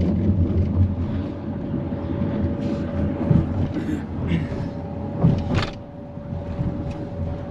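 Road noise of a moving car: a steady low rumble from engine and tyres, with a constant thin hum throughout and a few brief louder moments in the middle.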